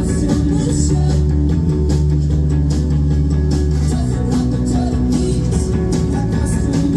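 Live rock band playing, electric guitar over a steady bass line and drums.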